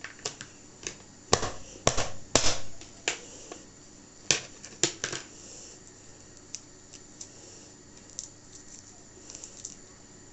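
Garlic cloves being crushed under a flat kitchen knife blade on a chopping board: about seven sharp knocks in the first five seconds, then fainter clicks and handling noise.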